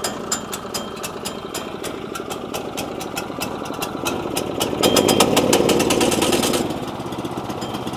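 Sawmill's small gasoline engine running while it warms up, with an uneven firing beat; about four and a half seconds in it speeds up and runs louder for about two seconds, then drops back. The owner puts its rough running down to having the choke on.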